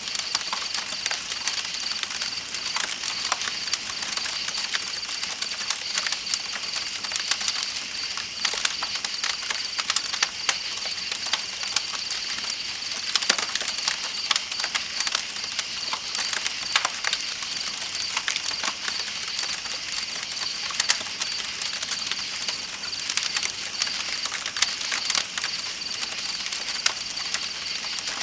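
Campfire crackling with irregular sharp pops, over a steady high trill of night insects and the even hiss of flowing river water.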